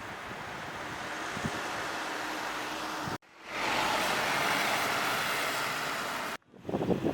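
Steady outdoor rush of traffic and wind on the microphone, in three pieces that cut off suddenly twice; the middle piece is louder and more hissing.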